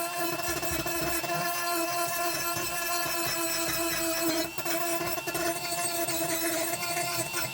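Rotary tool fitted with a carbide bit running at a steady high speed, grinding rust out of the iron ice claw, with an even whine throughout.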